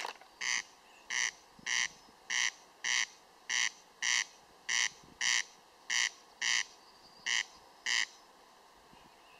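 Corncrake calling: a dry, rasping "crex-crex", about seven double rasps in a steady rhythm, stopping near the end.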